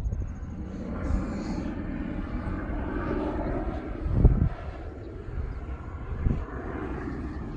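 A steady distant engine drone, with two short low thumps about four and six seconds in.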